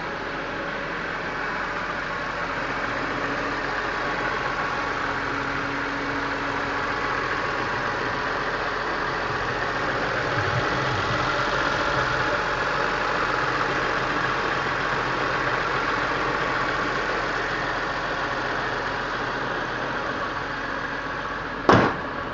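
BMW M3's S54 straight-six idling steadily. A single sharp thump near the end.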